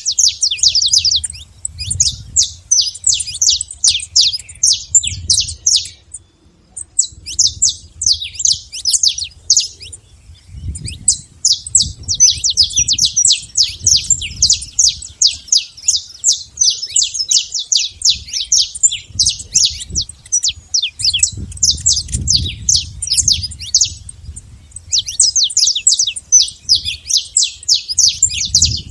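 Saffron finch singing: long runs of rapid, high chirps, breaking off briefly about six seconds in and again a few seconds before the end.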